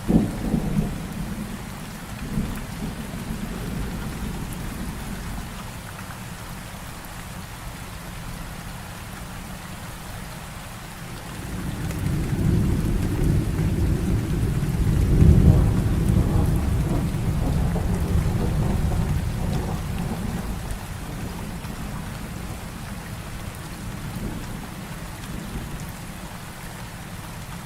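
Heavy rain falling steadily in a thunderstorm. There is a sharp thunder crack right at the start, and about twelve seconds in a long low thunder rumble swells up and fades away over roughly ten seconds.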